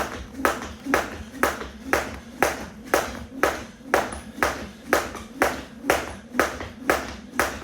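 1 lb weighted jump rope slapping the floor at about two strokes a second in a steady skipping rhythm.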